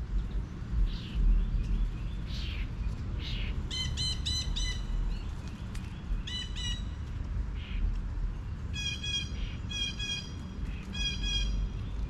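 Birds calling: a few harsh chirps in the first few seconds, then five short bursts of rapid repeated clear notes, three of them close together near the end. A low steady rumble runs underneath.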